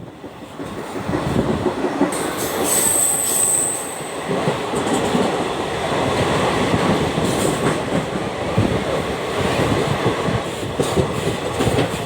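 Vehicle travelling through a mountain tunnel: a dense, steady rumbling noise, with a brief high-pitched squeal from about two to four seconds in.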